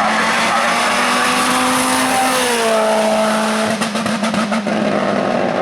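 Hill-climb race car at high revs, its engine note holding steady and then dropping in pitch about halfway through, followed by a quick series of sharp cracks.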